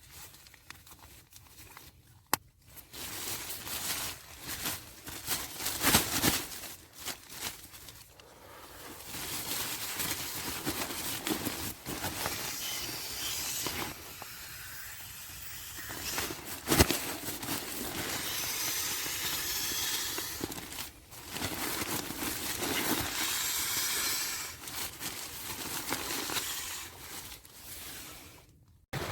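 Wind blowing in gusts that rise and fall, a hissing rush, with a couple of sharp clicks.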